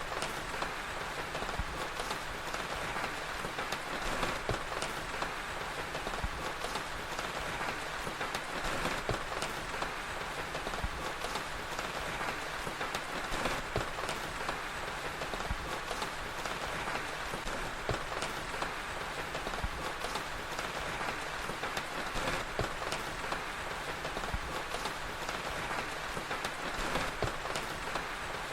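Steady rain ambience, a dense even hiss, with the frequent sharp pops and crackles of a wood fire scattered through it.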